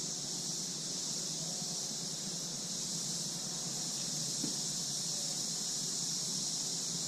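Steady high-pitched chorus of insects, an unbroken shrill hiss with no pauses.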